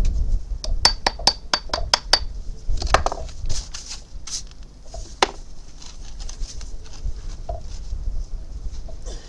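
A quick run of about seven sharp, ringing clinks about a second in, then scattered taps and a scrape, with one louder click a little after halfway.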